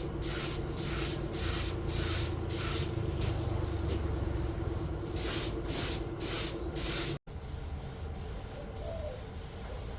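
Paint spraying in short, rhythmic bursts of hiss, about two to three a second, over a steady hum. The bursts pause for about two seconds midway, then resume until an abrupt cut about seven seconds in, after which a quieter, steadier noise carries on.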